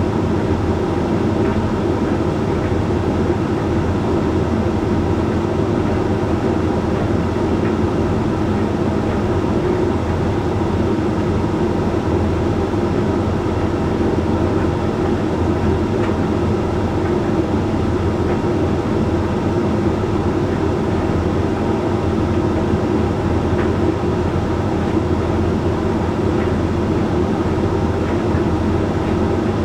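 Hoover Link X Care HLX C10DRGR condenser tumble dryer running mid-way through a drying cycle: a steady, even hum and rumble from its motor, fan and turning drum.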